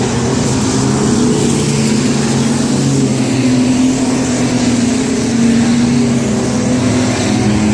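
Several race truck engines running together on the track, a loud steady drone of overlapping engine notes that drift slightly up and down.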